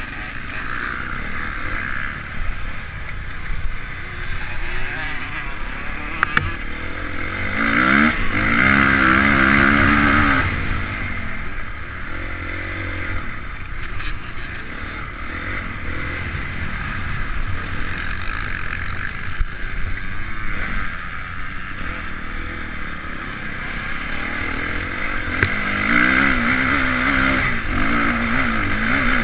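Honda CRF450 motocross bike's single-cylinder four-stroke engine, running under load with the throttle opening and closing, revving up in climbing pitch about eight seconds in and again near the end.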